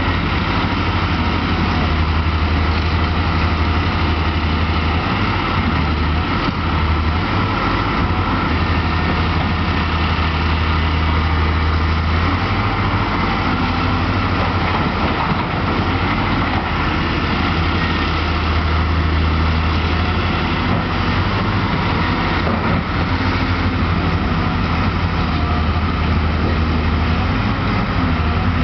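Heavy diesel mining machinery, a hydraulic shovel and haul trucks, running steadily with a deep low rumble that swells and eases a little every few seconds.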